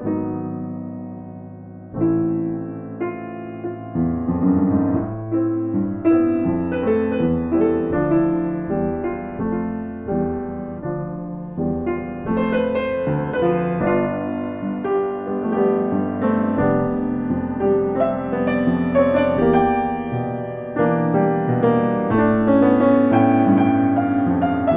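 Piano music: a held chord, a new chord about two seconds in, then busier playing with many notes from about four seconds on.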